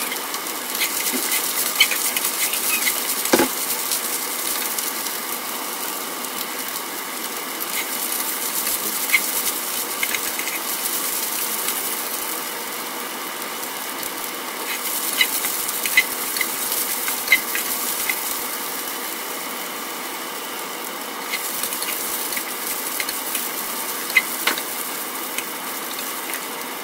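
Broccoli florets sizzling in hot oil in a frying pan, a steady hiss with scattered light clicks and scrapes as a slotted spatula turns them.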